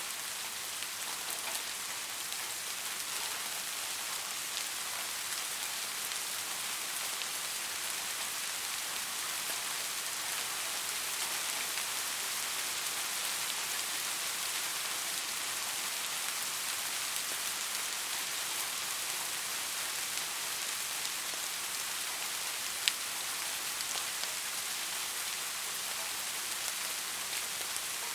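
Steady rain: a dense, even hiss of falling drops with fine pattering ticks throughout, and one sharper single tick about three-quarters of the way through.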